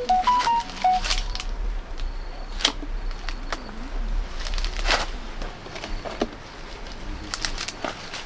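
Birds calling, with a short stepped whistled phrase in the first second and a low wavering coo. Scattered sharp knocks and clicks are heard throughout.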